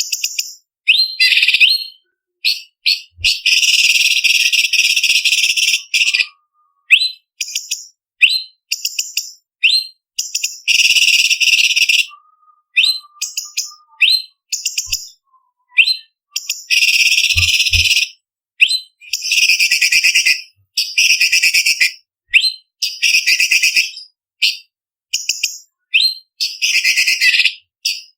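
Orange-bellied leafbird singing a loud, varied song. Short, sharp high notes alternate with long rapid trills of one to two seconds, and the phrases are broken by brief pauses.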